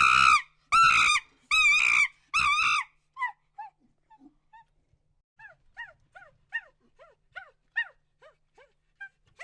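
An animal's repeated high-pitched cries: four loud calls, each about half a second long and roughly three-quarters of a second apart, then a string of fainter, short, falling yelps from about three seconds in.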